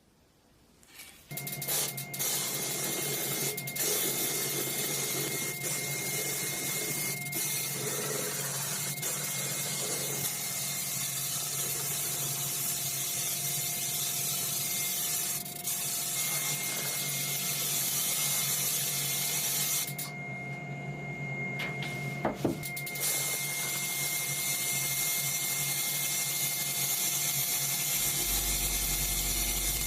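A power tool working on the rusty toy truck: a motor runs steadily under a strong hiss. About twenty seconds in the hiss stops for a couple of seconds while the motor keeps running.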